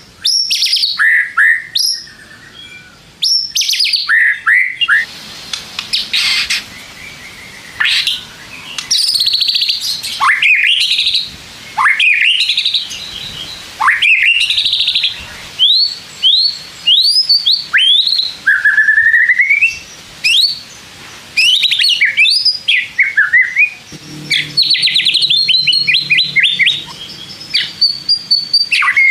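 White-rumped shama (murai batu) in full, energetic song. It gives a rapid string of varied phrases: clear whistles, rising and falling sweeps and quick trills, with short pauses between them.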